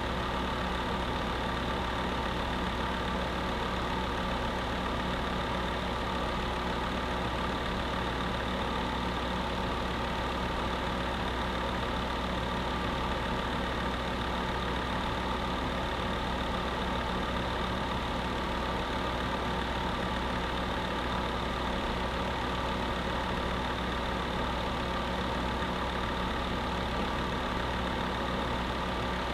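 Electric space heater running steadily: an unchanging fan whir with a hum of several held tones.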